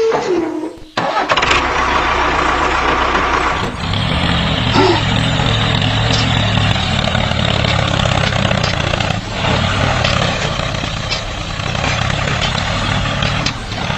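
Small engine starting about a second in, after a short gap, then running steadily.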